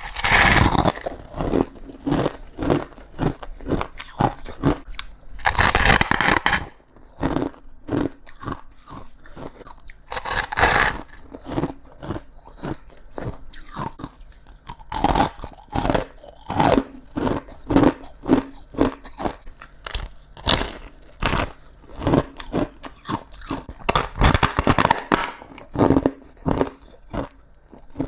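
A person biting and chewing ice: a big crunching bite every few seconds, each followed by a run of crunchy chews, about one or two a second.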